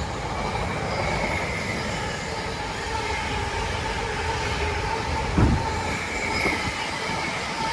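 Intermodal freight train passing through, its wagon wheels running on the rails with a steady rumble and high ringing squeal tones. A single thump comes about five and a half seconds in.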